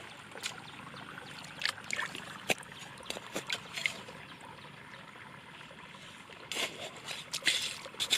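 Water trickling steadily, with scattered short clicks and knocks that come thicker near the end.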